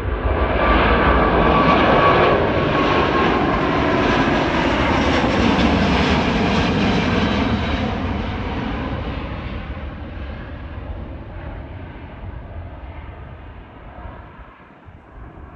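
Airbus A350-941 jet engines (Rolls-Royce Trent XWB) running at take-off power as the airliner passes, loud for the first several seconds with an engine whine that slides down in pitch, then fading steadily into the distance.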